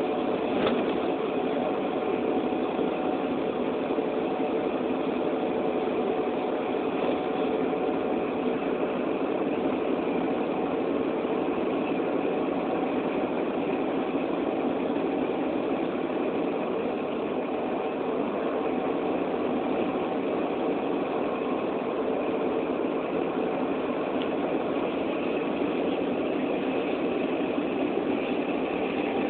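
A vehicle's engine running steadily: a constant hum under an even hiss, with one short click about a second in.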